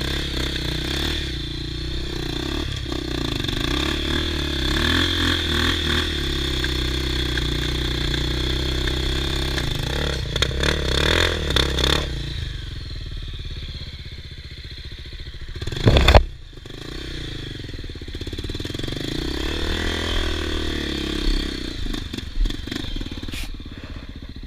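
Honda XR 250 Tornado trail bike's single-cylinder four-stroke engine running and revving up and down while riding a muddy off-road stretch, with a single loud thump about two-thirds of the way through.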